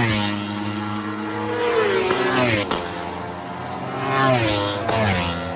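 Racing superbikes at high revs going past one after another, each engine's pitch dropping sharply as it passes, about three times.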